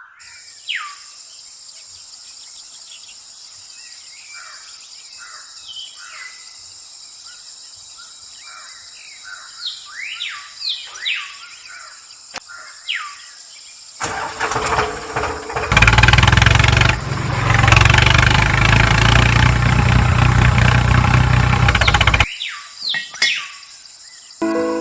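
Birds chirping in short falling calls over a steady high hiss. About fourteen seconds in, a loud motor starts and runs with a heavy low rumble for roughly eight seconds, then cuts off sharply, and the bird calls return.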